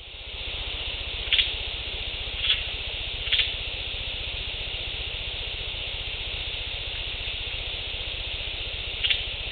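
Sharp clacks, as of rocks struck together, over the loud steady hiss of an enhanced field recording: three clacks about a second apart in the first few seconds, then one more near the end. It is offered as a recording of alleged Sasquatch rock clacking.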